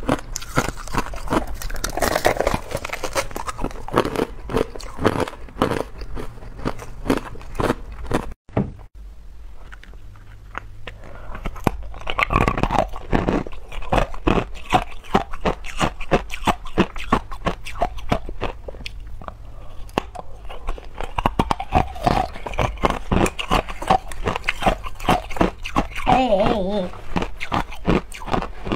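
Hard clear ice being bitten and chewed: dense, irregular crunching and cracking, with a brief break about eight seconds in.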